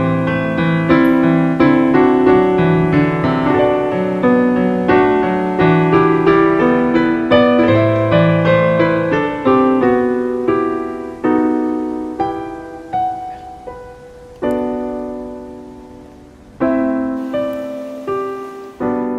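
Background piano music: a gentle melody of struck notes over a bass line, thinning to slower, sparser chords about two-thirds of the way through before a new phrase begins.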